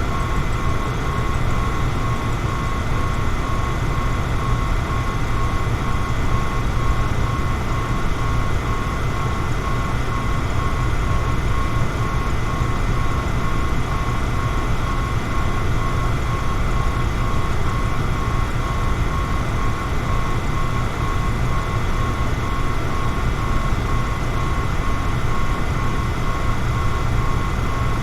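Electric fan running steadily: an even whoosh of moving air, heaviest in the low end, with a steady high whine from the fan throughout.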